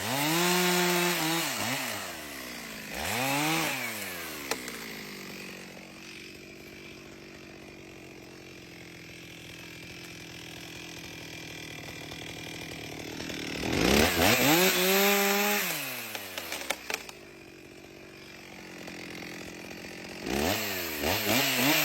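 Two-stroke chainsaw engine revving up to full throttle and dropping back to idle several times: twice early on, once strongly about two-thirds of the way through, and again at the end, with a quieter idling stretch between.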